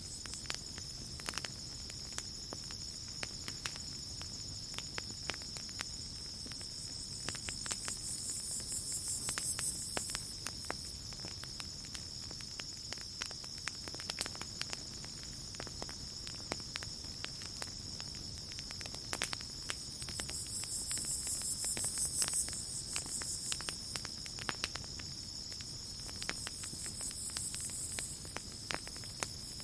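Campfire crackling with scattered sharp pops over a steady, high-pitched chorus of crickets. A higher insect buzz swells up and fades three times.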